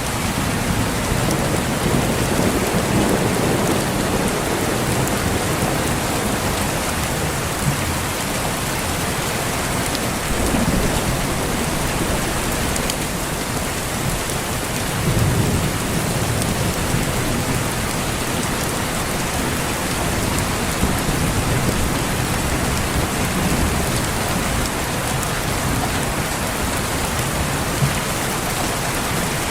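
Steady heavy rain with rolls of low thunder swelling up a few times, the loudest about fifteen seconds in.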